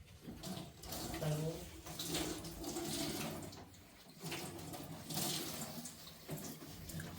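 Water running in an uneven, hissing stream that swells and eases, with faint voices in the background.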